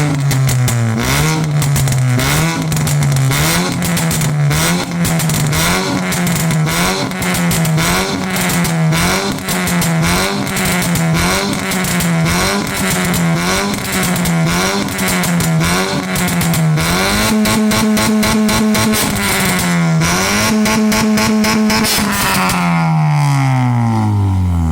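Honda Brio's four-cylinder petrol engine revving through a full-system aftermarket racing exhaust, loud. The throttle is blipped about once a second, then held at higher revs twice, and the revs fall back toward idle near the end.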